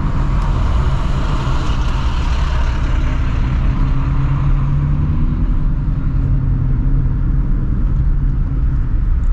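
Straight-piped Shelby GT350's 5.2-litre flat-plane-crank V8, with long-tube headers, droning steadily under light throttle while driving, without hard revving.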